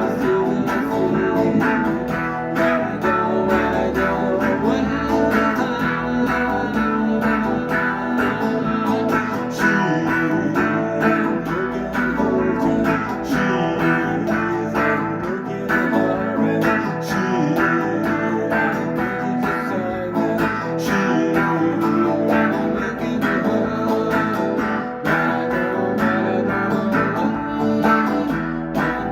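Guitar music: plucked and strummed guitar playing steadily, with a dense run of notes.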